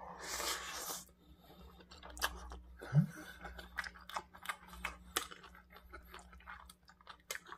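Close-up wet chewing and lip-smacking of a mouthful of kimchi fried rice with a soft egg, a string of short mouth clicks. It opens with a short slurp as the spoonful goes in, and about three seconds in there is a brief low hum.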